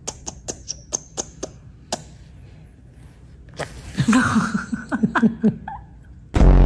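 A quick run of sharp clicks or taps, then about two seconds of chuckling, laughter-like voice. A loud, harsh burst starts just before the end.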